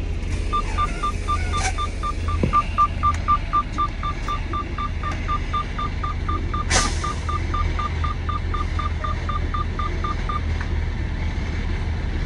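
Rapid electronic beeping from the tractor-trailer, about four short beeps a second for roughly ten seconds, over the diesel engine idling. There is a short burst of air hiss about seven seconds in.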